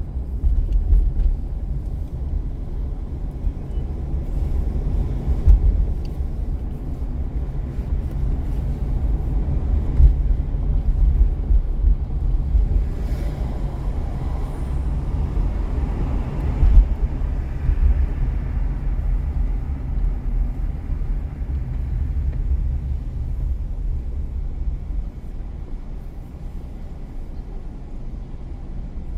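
Car driving on city streets: steady low rumble of road and engine noise, with a louder rushing swell from about halfway through, as of a passing vehicle, that fades over several seconds.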